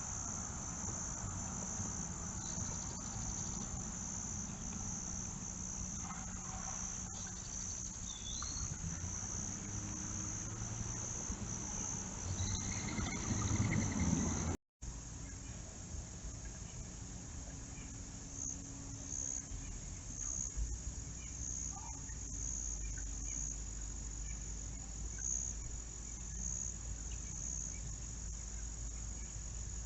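Crickets chirping in a steady, high, pulsing trill, cutting out for a moment about halfway through.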